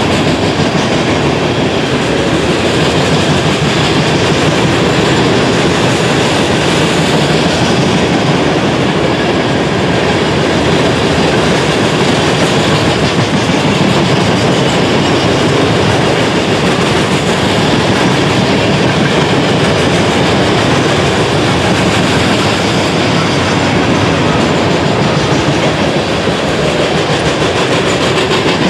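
Loaded open-top trash cars of a freight train rolling past close by, with a loud, steady rumble of wheels on rail that does not let up.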